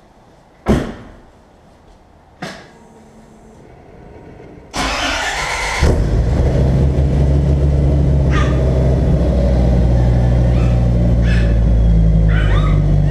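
Two sharp knocks, then the Dodge Viper's V10 is cranked by its starter for about a second and catches about six seconds in, settling into a steady idle while it warms up.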